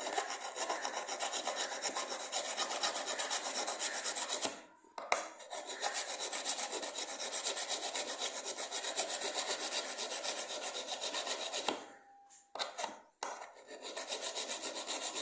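A metal blade being sharpened by hand, rubbed back and forth in quick strokes on a homemade wooden sharpening tool, making a steady rasping scrape. It pauses briefly twice, about four and a half seconds in and again near the end, then resumes.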